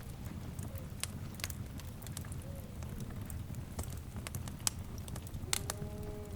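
Wood fire crackling: irregular sharp snaps and pops over a low, steady rumble. Near the end comes a faint, short pitched call.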